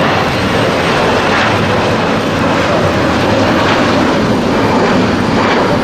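Airbus A340-300's four CFM56 jet engines at takeoff power: a loud, steady rush of jet noise with no breaks.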